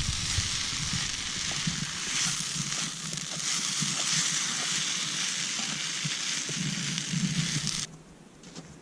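Food sizzling as it fries in a pan, a steady hiss with faint crackles, cutting off suddenly about eight seconds in.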